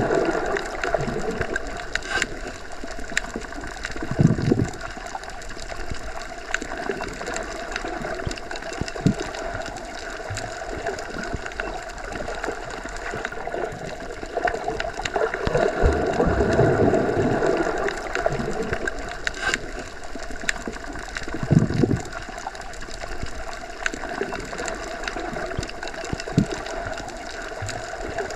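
Underwater ambience: a continuous rushing, gurgling bed of water with a steady hum. Low surges swell and fade several times, and sharp clicks are scattered throughout.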